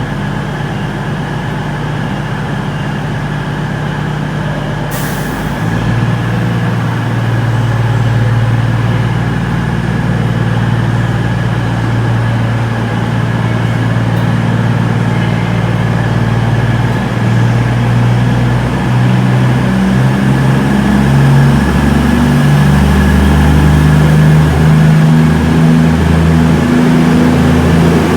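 Diesel train engine running, getting louder about six seconds in and shifting pitch in steps in the second half. A short hiss about five seconds in.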